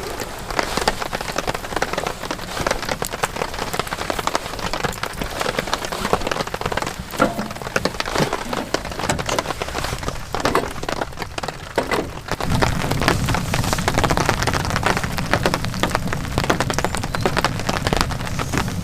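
Heavy rain falling, with dense individual drops striking a surface. About twelve seconds in, a low rumble joins the rain and continues beneath it.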